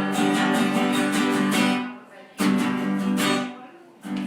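Acoustic guitar strumming chords, with no singing. The chords die away briefly about two seconds in and again near the end before fresh strums pick up.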